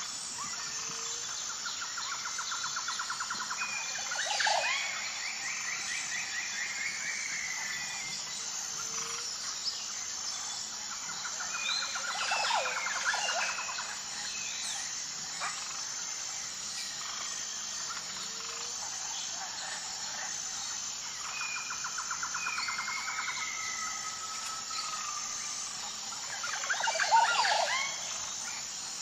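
Wild birds calling over a steady, high-pitched insect chorus. The same sequence comes back three times, about every nine seconds: a rapid trill, then a louder burst of sharp calls and a falling, sliding whistle.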